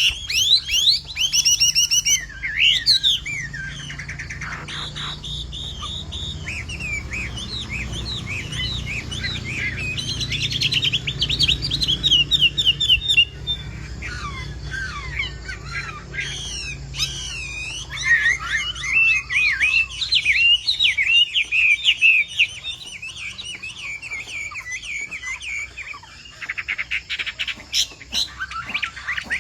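Chinese hwamei (hoạ mi) singing a long, varied song of rapid whistled phrases and trills, almost without a break.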